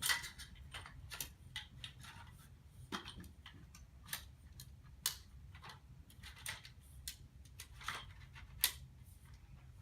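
Irregular sharp clicks and light knocks as the tube sections of a curved fabric display stand frame are handled and pushed together, with the push-button locks snapping into place. The loudest clicks come at the start and near the end.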